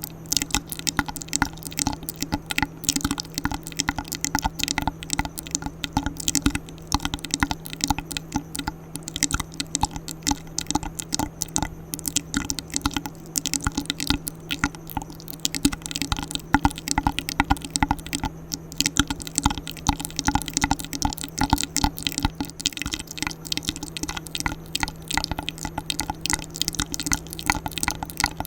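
ASMR mouth sounds close to the microphone: a fast, continuous run of wet clicks and smacks.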